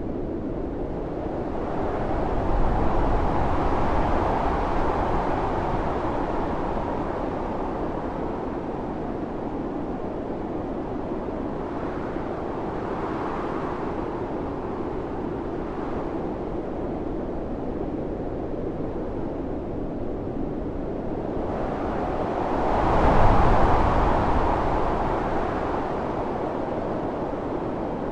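Howling wind of a snowstorm: a steady rushing noise that swells in gusts, a couple of seconds in, again around halfway, and most strongly about three-quarters of the way through.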